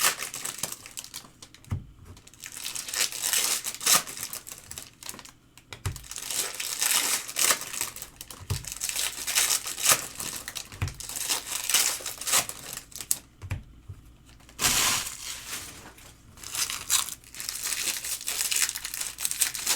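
Foil trading-card pack wrappers crinkling and tearing as packs are opened and handled, in uneven bursts with short pauses. A few soft knocks are heard along the way.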